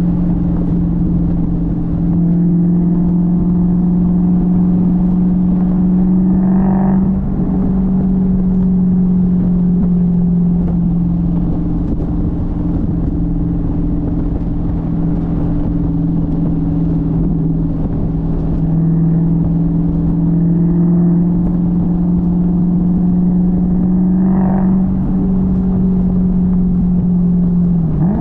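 Dodge Challenger engine and exhaust at a steady cruise, a loud, even drone. The pitch shifts briefly about seven seconds in, and again with a quick dip and rise near the end, like a gear change or a change of throttle.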